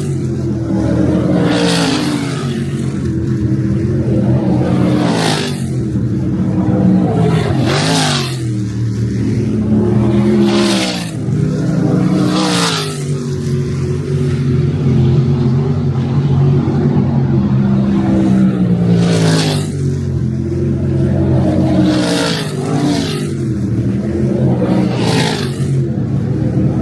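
A field of V8 sprint cars racing on a dirt oval at high revs. Every two or three seconds a car passes close by with a rush of engine noise, and the engine pitch drops and climbs again as cars back off and get back on the throttle through the turns.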